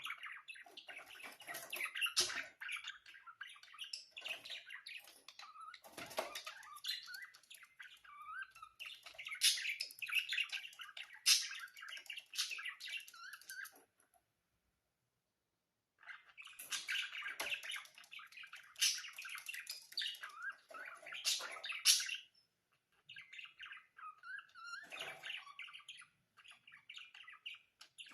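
Budgerigars chattering and warbling, a busy mix of chirps and short squawks. It breaks off completely for about two seconds in the middle, then carries on.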